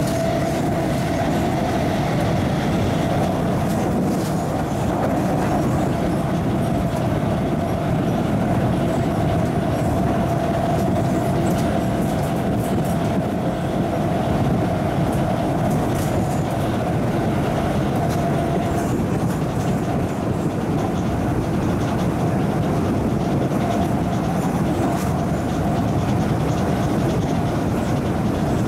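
MTR East Rail MLR electric multiple unit heard from inside the carriage while running between stations: a steady rumble of wheels on rail with some clickety-clack. A faint steady tone rides on top and fades out about two-thirds of the way through.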